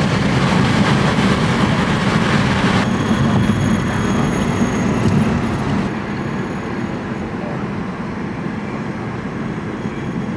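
Steady rumble of a car being driven: road, tyre and engine noise heard from inside the cabin, easing off somewhat about six seconds in.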